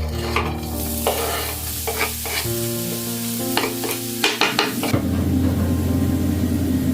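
Food sizzling in a frying pan, with scattered clicks of a utensil stirring it, over soft background music. From about five seconds in a fuller, steady rushing noise takes over.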